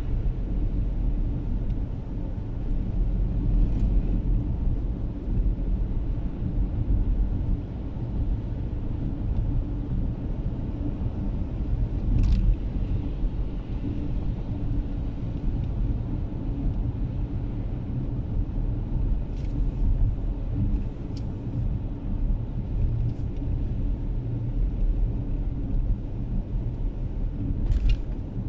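A car driving, with a steady low rumble of engine and tyres and a few faint clicks here and there.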